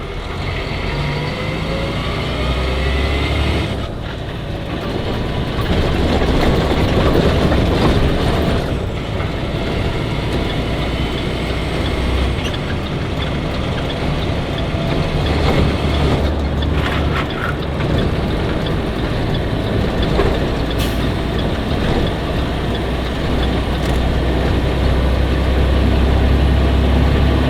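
Truck engine and road noise heard from inside the cab while driving, a steady low drone that swells and eases a few times.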